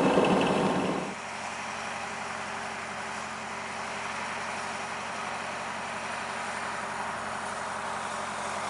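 A sailing yacht's inboard engine running under way, which cuts off abruptly about a second in, giving way to a quieter, steady engine hum.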